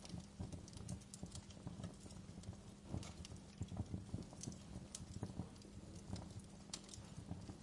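Wood fire burning in a fireplace: irregular crackles and sharp snaps over a low, steady rumble of the flames.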